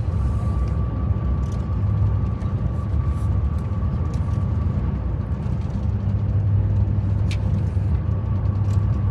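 Moving train heard from inside: a steady low rumble with a faint steady whine and a few light clicks.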